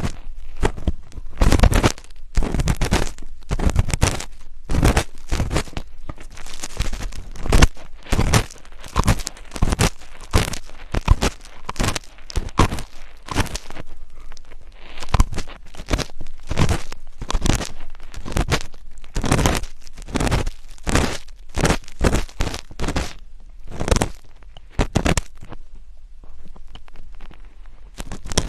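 Close-miked ASMR scratching and rubbing on the microphone: irregular crackly strokes, several a second, with a brief lull about halfway through.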